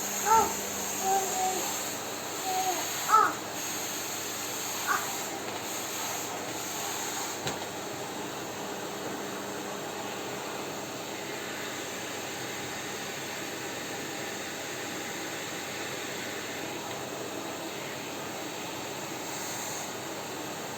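Vacuum cleaner running with a steady whooshing hiss. There are a few short cat meows in the first few seconds.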